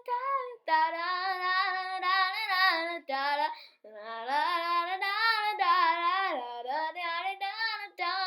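A child's voice singing a wordless "da-da-da" melody unaccompanied, the held notes wavering with vibrato.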